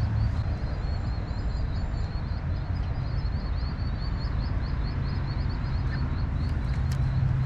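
A small bird chirping rapidly, several short high notes a second in a long run, over a steady low rumble.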